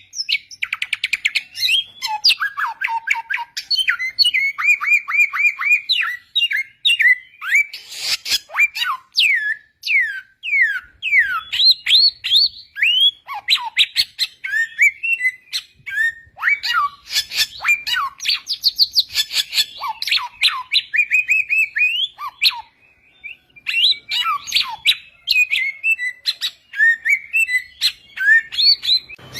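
Samyong, an Indonesian endemic songbird, singing a long, varied song: rapid chirps and trills mixed with clear whistled notes, many sliding down in pitch, with a brief break about two-thirds of the way in.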